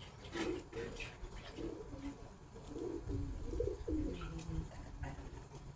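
Pigeon cooing, a run of low, repeated coos in short phrases.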